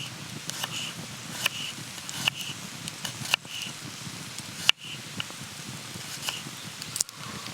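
Wood campfire crackling, with sharp pops every second or so over a low, steady hiss; the loudest pop is about two-thirds of the way through.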